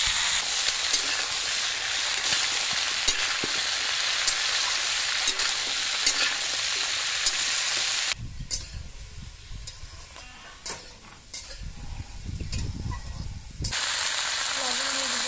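Green gourd pieces sizzling in hot oil in an iron kadai, with the clicks and scrapes of a steel spatula stirring them. The hiss drops away abruptly about eight seconds in, leaving a quieter stretch of low rumble and a few clicks, and comes back near the end.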